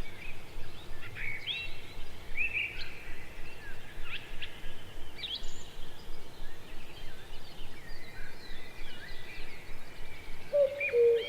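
Many birds chirping and whistling, with short rising and falling calls overlapping throughout. A lower held whistled note comes in near the end.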